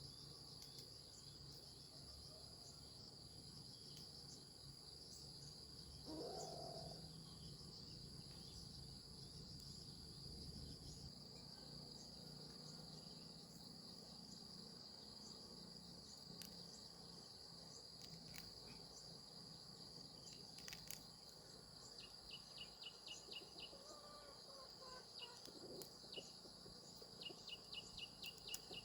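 Insects trilling in one steady, faint high-pitched tone. Twice near the end there is a short run of quick pulsed chirps.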